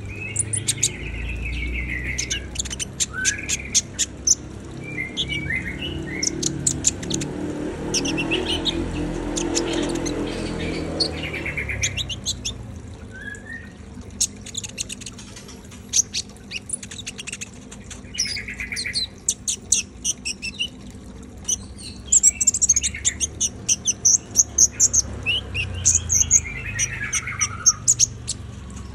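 Kolibri ninja sunbird singing busily: rapid runs of high, thin chirps, trills and sharp ticks, coming in bursts with short pauses.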